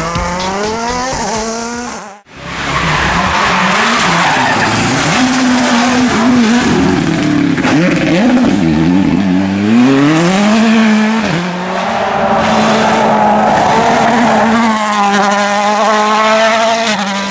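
World Rally Cars' 1.6-litre turbocharged four-cylinder engines at full throttle, the pitch climbing and dropping through gear changes. The sound breaks off abruptly about two seconds in, then comes back on another car.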